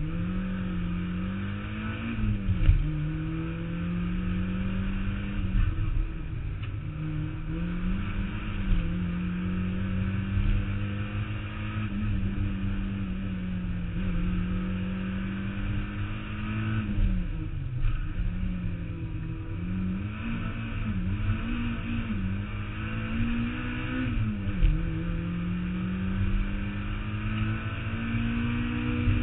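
Mazda Miata's four-cylinder engine under hard driving, its pitch climbing and dropping again and again as it revs up, lifts and shifts, over steady road and wind rumble.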